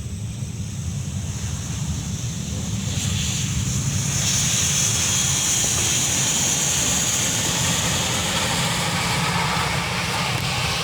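Airliner engines running with a steady low rumble, growing louder about three to four seconds in as a high hiss joins it, then holding steady.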